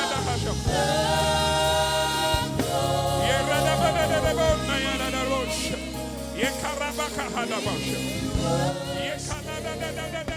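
Live gospel worship music: a church band playing with voices singing along.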